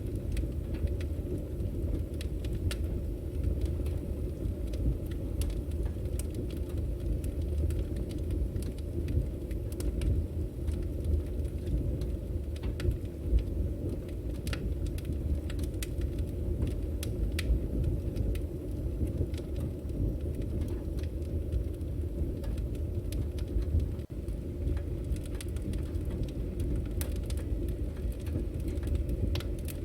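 Firewood burning with a steady low rumble and frequent sharp crackles and pops.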